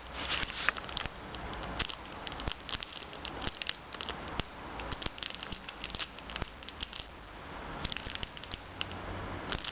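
Plastic fart bomb pouch crinkling with irregular small crackles as it is squeezed in the hands to burst the liquid packet inside. The packet does not pop.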